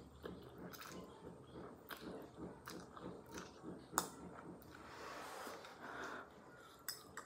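Close-miked mouth sounds of eating spicy noodles: faint rhythmic chewing, with a few sharp clicks of a metal fork against a ceramic bowl, the loudest about four seconds in. A soft slurp of noodles follows about five seconds in.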